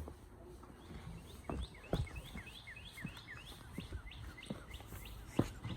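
A songbird singing a quick run of repeated chirps, about four a second, with a few dull thumps, the loudest near the end.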